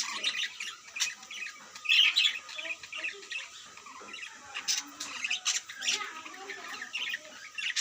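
Several birds calling with short, high chirps in quick clusters, loudest about two seconds in and again around five seconds.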